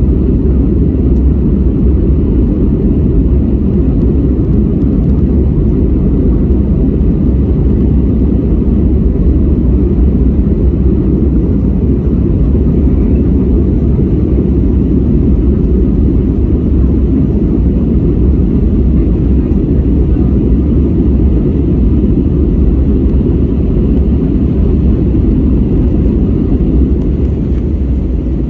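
Steady low rumble of an airliner's engines and rushing air, heard inside the passenger cabin in flight after takeoff.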